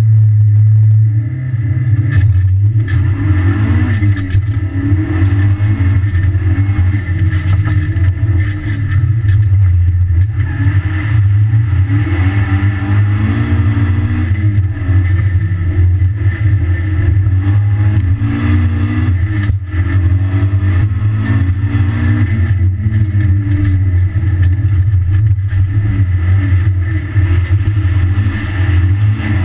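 Mitsubishi Lancer Evolution's turbocharged four-cylinder engine heard from inside the cabin, driven hard, its revs rising and falling again and again through gear changes.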